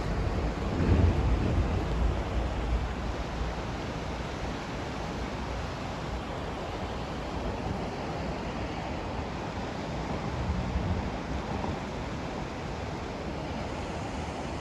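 Steady pink noise, an even hiss, with low rumbles swelling about a second in and again around ten seconds in.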